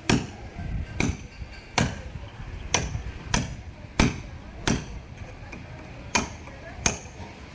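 A hand tool striking something over and over: about ten sharp blows, one roughly every 0.7 seconds, in a steady working rhythm.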